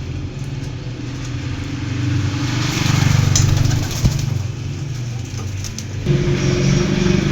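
A motor vehicle's engine running steadily, louder for a couple of seconds in the middle, with its hum changing to a different steady pitch about six seconds in.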